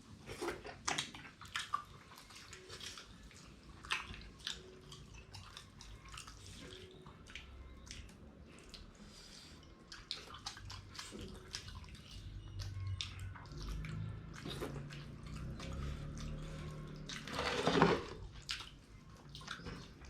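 Close-up wet eating sounds of dhido and fish gravy: soft squishing, smacking and chewing, a stream of small clicks, with one louder slurp-like burst near the end.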